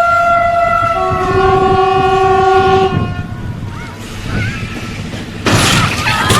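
A train's multi-tone horn sounding a long chord that shifts to a lower set of notes about a second in and stops about three seconds in. About five and a half seconds in, a sudden loud noisy rush begins.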